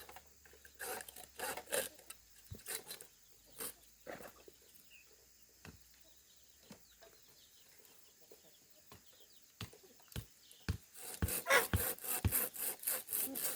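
A hand tool scraping and rasping on bamboo in irregular strokes, with a quieter stretch of scattered knocks in the middle and a faster run of strokes near the end.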